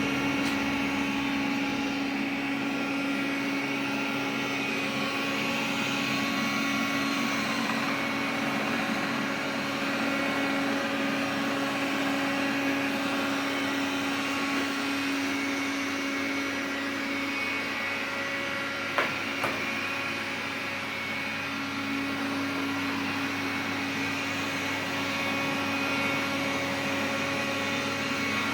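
Xiaomi vacuum cleaner running steadily, with a strong hum and several steady whining tones above it: the extraneous noise the owner is complaining about. Two short clicks come about two-thirds of the way through.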